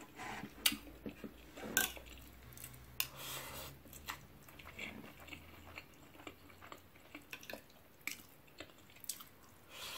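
Close-miked chewing and mouth sounds of a person eating chicken curry and rice, with scattered short clicks and smacks.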